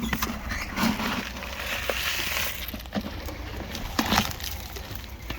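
Parrots crunching seed in their beaks: a run of sharp clicks and crackles, with a brief rustle about two seconds in.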